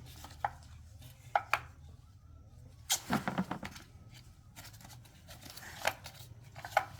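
Scattered sharp clicks and knocks of hard objects being handled, with a short cluster of them about three seconds in, over a steady low hum.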